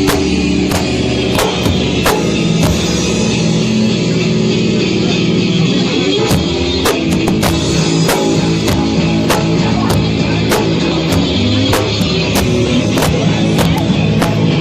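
A loud live rock band playing: distorted guitar and bass over a drum kit, with cymbal and snare hits falling on a steady beat that settles in about halfway through. The recording is distorted and overloaded.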